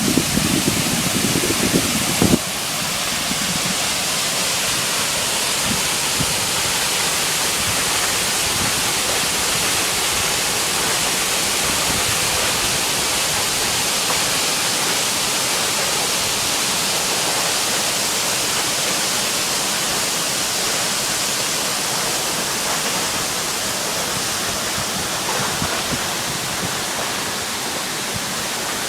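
Steady rush of falling water from the Tad Fane waterfall. Wind buffets the microphone for the first two seconds or so, then stops abruptly.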